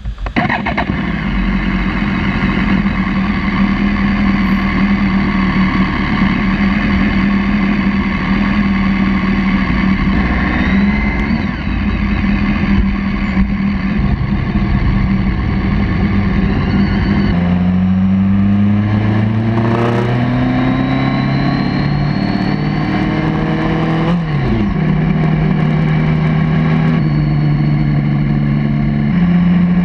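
BMW K1200R motorcycle's inline-four engine running on the road with a low rush of wind on the microphone. It holds a steady pitch for the first part, then about two-thirds in the pitch climbs and drops in steps as the bike accelerates and shifts gears, with one quick fall and rise as it slows and picks up again.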